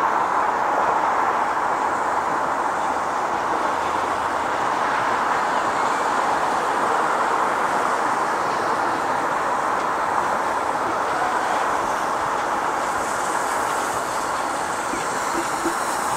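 A train running on the rails, a steady even noise that stays at the same level with no clear wheel-beat.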